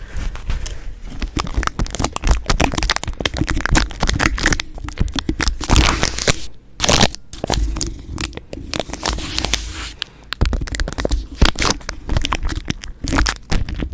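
Tape and gift packaging handled right at the microphone: rapid, irregular crackling, scraping and tearing, with a couple of brief pauses.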